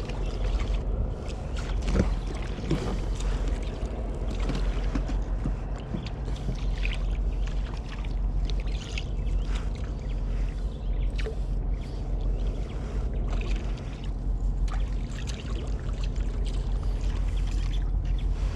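Water sloshing against a kayak's hull as it sits on the water, with a steady low rumble and scattered small knocks and clicks.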